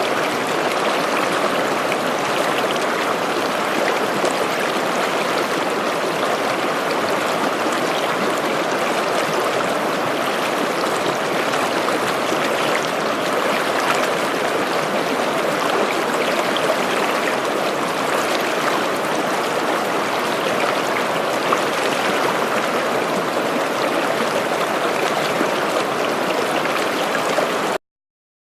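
A small stream babbling over rocks, a steady rush of flowing water with trickling. It cuts off suddenly near the end.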